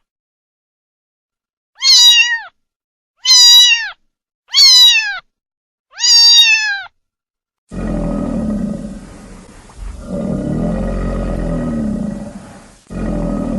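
A cat meowing four times, each a short, high call that falls in pitch, with gaps of about a second between them. About eight seconds in, a loud, steady low rumbling sound takes over and runs on with two brief breaks.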